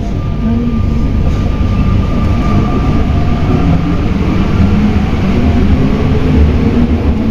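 Alstom NS-93 rubber-tyred metro train running, heard from inside the car: a steady low rumble with a faint motor whine, the noise building slightly as the train gathers speed.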